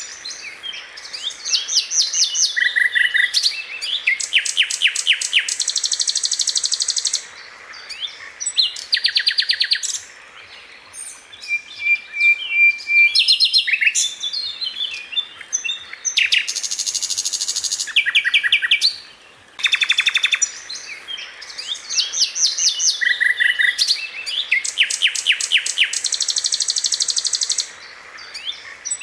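Sikatan londo, a flycatcher, singing in loud, high phrases of fast repeated notes and rattling trills, each phrase one to two seconds long with short gaps between. The same run of phrases recurs about twenty seconds later, as in a looped song recording.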